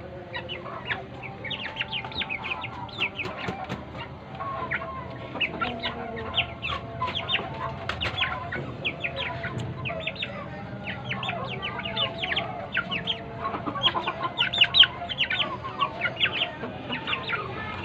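A group of Aseel chicks peeping in a busy stream of short, high cheeps, with lower clucking mixed in.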